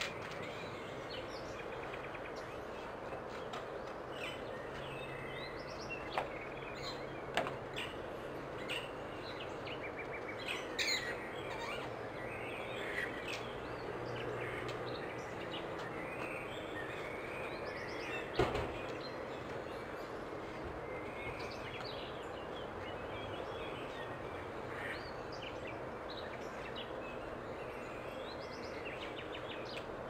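Steady outdoor background noise with scattered short bird chirps and calls throughout, and a few sharp clicks, the strongest about eighteen seconds in.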